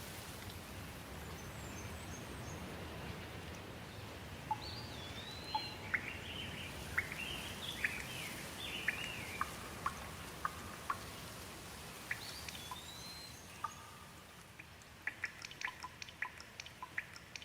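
Steady rain hiss with small birds chirping over it in short rising and falling calls from about four seconds in. Near the end the rain thins and gives way to a quick run of sharp water drips.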